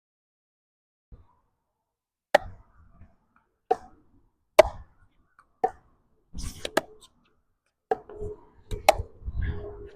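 A ball being hit back and forth in a rally: about eight sharp hits, roughly one a second, starting a couple of seconds in. Low rumbles of wind on the microphone come in the second half.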